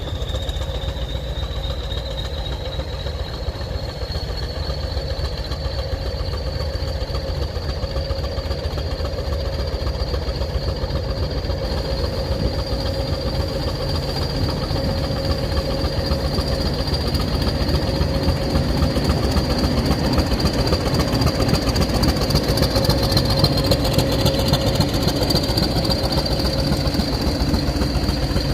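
Class 20 diesel-electric locomotive's English Electric eight-cylinder diesel working under power as it pulls away with its train. A low steady engine note is joined by a high turbocharger whistle that rises slightly over the first dozen seconds, and the whole grows a little louder toward the end.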